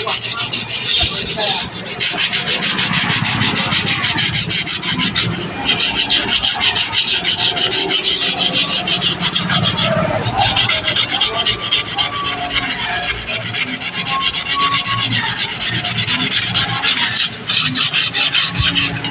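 Rusty knife blade being scrubbed by hand with an abrasive to take off the rust: quick, even back-and-forth scraping strokes. The strokes pause briefly three times.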